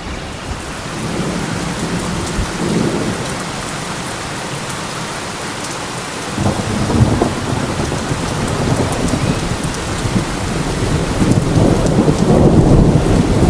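Steady heavy rain with rolling thunder. A deep rumble swells about six seconds in, and another builds louder toward the end.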